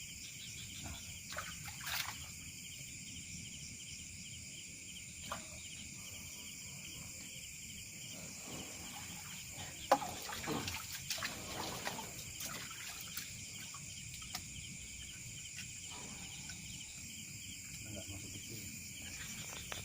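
Steady high-pitched insect chorus, like crickets, with a few faint knocks scattered through it; the sharpest knock comes about ten seconds in, followed by a brief busier stretch.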